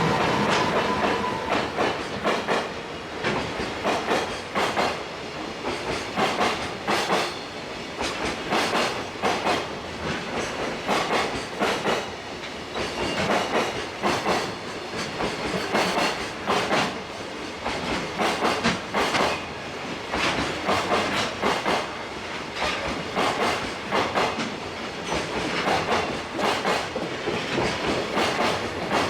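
Long freight train of wagons rolling past, its wheels clicking in irregular clusters over the rail joints with a steady rumble.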